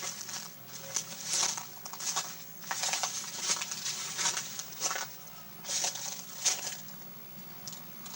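Footsteps crunching and rustling over storm debris, in irregular steps about one or two a second.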